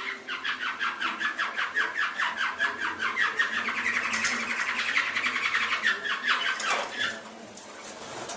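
Domestic canary singing a long, rapid trill of repeated short notes. It fades out about six to seven seconds in.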